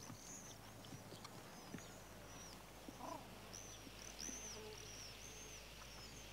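Faint birds chirping: a string of short, high calls repeating about every half second.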